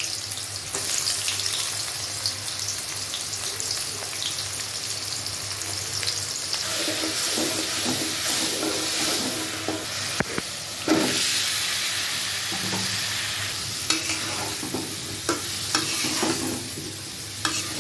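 Onions and spices sizzling in hot oil in a metal wok, with a spatula stirring through and knocking against the pan several times, more often in the second half.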